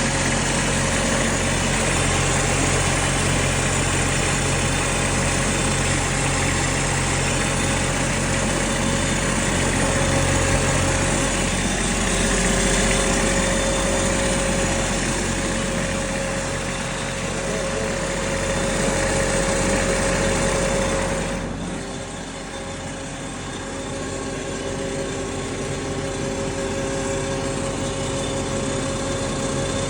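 Kubota D1105 three-cylinder diesel, newly swapped into a Bobcat 553 skid steer, running steadily on its test run. It gets a little quieter about three-quarters of the way through.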